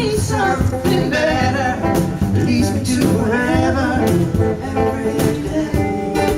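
Live acoustic band music: a voice singing over strummed acoustic guitar, with a cajon keeping a steady beat.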